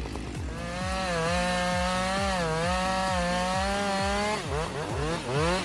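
Chainsaw running under load in a cut, its pitch holding nearly steady with small dips. About four seconds in it is revved up and down repeatedly. A regular low thump beats underneath about four times a second.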